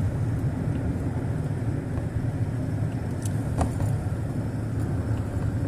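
Steady low rumble of a motor vehicle, engine and road noise running with no change.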